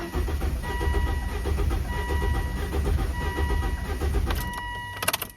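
Starter motor cranking the Volvo V70 engine in an even rhythm without it firing, the cranking stopping shortly before the end. The third cylinder's spark plug is out and petrol is being thrown from the open plug hole, a sign of an injector stuck open and flooding the cylinder. A steady electronic warning chime repeats over the cranking.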